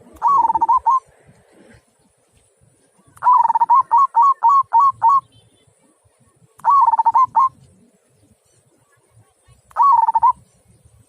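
Zebra dove (perkutut) cooing in four bursts of quick rolling notes, the second the longest at about eight notes, with pauses of a second or two between.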